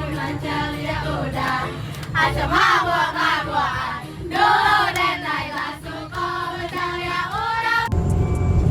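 Several voices singing together. Near the end this cuts off abruptly to music over a low steady rumble.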